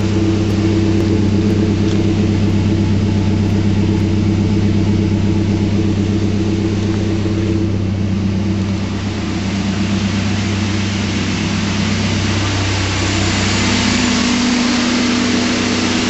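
The 2.7L 3RZ four-cylinder of a 1997 Toyota 4Runner idling through a Flowmaster 40 Series Delta Flow cat-back exhaust, heard at the tailpipe: a steady low drone. About two-thirds of the way through, its tone rises slightly and more hiss comes in.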